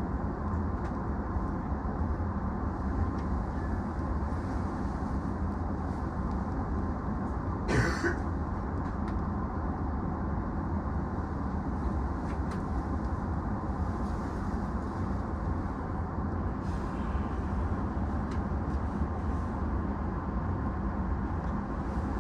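Steady low hum of a standing E233-series electric commuter train, heard inside the car, with its onboard equipment running. A single short cough-like sound about eight seconds in.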